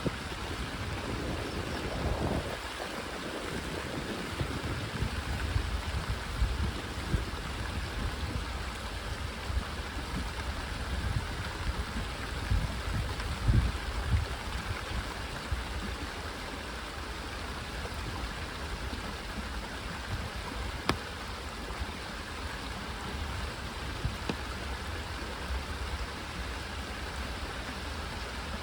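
Rain falling steadily, an even hiss, with irregular low rumbles on the microphone mostly in the first half and a single sharp click about three-quarters of the way through.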